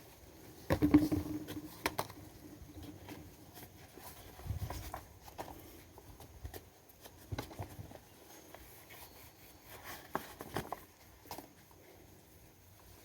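Green corn husks being handled and folded: scattered rustles and light taps, with a louder burst of handling noise about a second in.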